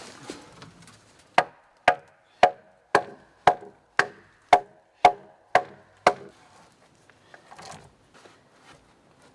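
Wood being chopped: ten sharp, evenly paced strikes about two a second, each ringing briefly, then faint rustling.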